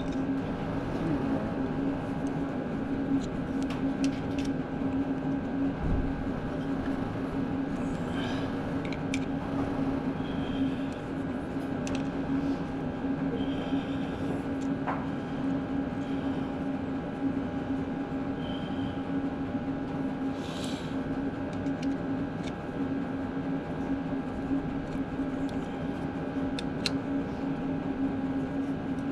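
Electric drill running steadily with an even hum while cutting into a broken starter mounting bolt, with a few faint clicks of metal.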